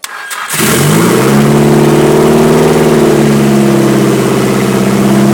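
Nissan SR20DET turbocharged 2.0-litre inline-four catching about half a second in on a cold start, rising, then running at a fast, steady idle with the throttle held slightly open.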